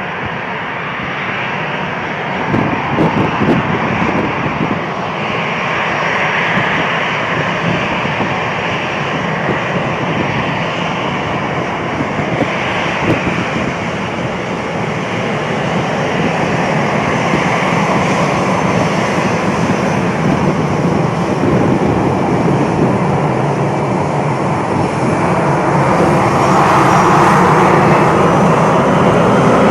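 Airbus A320-214's CFM56 jet engines running in a steady rush, growing gradually louder and loudest near the end.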